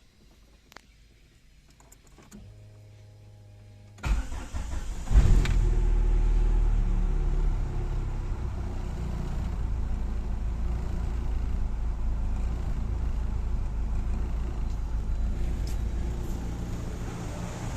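Daewoo Racer GTI's four-cylinder engine: a brief steady hum, then the starter cranks about four seconds in, the engine catches and revs about a second later, and settles to a steady idle. The owner reports an unstable, shaking idle when hot, possibly a misfire.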